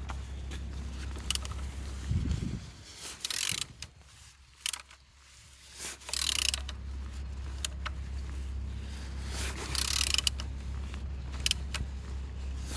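Bare engine being turned over by hand at the crankshaft: mechanical clicking and scraping with three louder rasping rushes about three seconds apart, over a steady low hum. It turns freely, and compression is reported on all cylinders.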